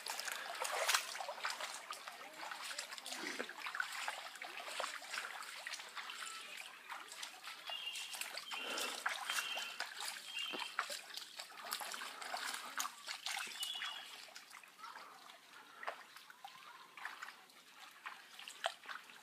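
Shallow stream water trickling over sand and pebbles, with small splashes. A few short high chirps come about halfway through.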